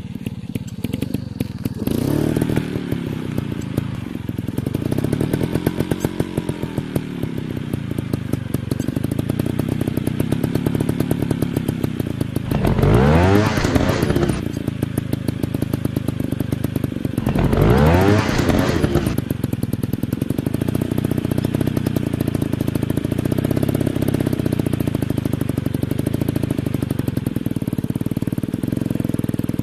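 Dirt bike engines running and revving, the pitch rising and falling as the throttle opens and closes, with two loud, sharp revs about halfway through.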